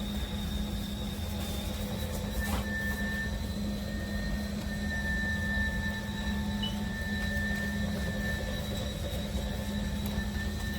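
Cordless dual-motor electric spin mop running, its motors spinning the mop pads with a steady whir and a thin high whine.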